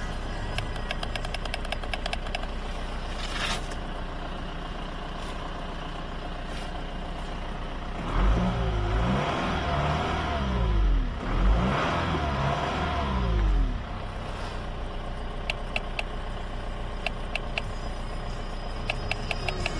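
Motor vehicle engine whose pitch rises and falls twice, loud for about six seconds in the middle, over a steady background.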